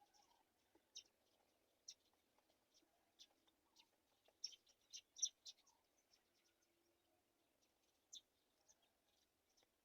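Faint, scattered short high bird chirps, a quick cluster of louder ones about halfway through and one more near the end.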